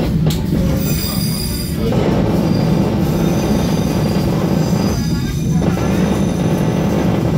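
Merak local passenger train running along the rails: a steady, loud low rumble of wheels on track.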